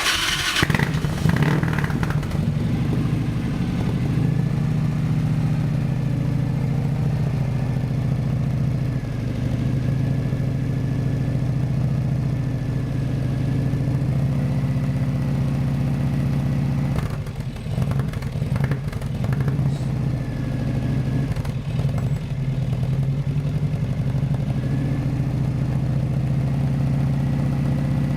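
Harley-Davidson FXR's V-twin engine, breathing through a 2-into-1 muffler, starting abruptly and then running at a steady idle, with a few uneven moments about 17 to 21 seconds in.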